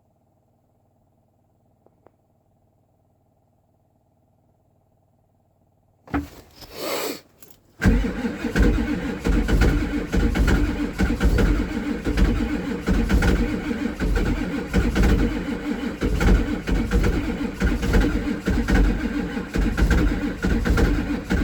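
Ford 7.3 IDI diesel V8 cold start in deep frost: near silence with a faint click about two seconds in, then about six seconds in the engine is cranked over. From about eight seconds in it turns over loudly with an even, rhythmic pulse.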